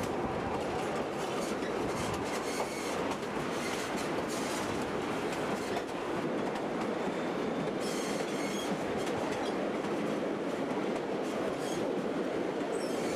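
Narrow-gauge passenger train rolling along the track, heard from aboard: a steady rumble of wheels on rails, with a few faint high wheel squeals on the curve about two-thirds of the way in.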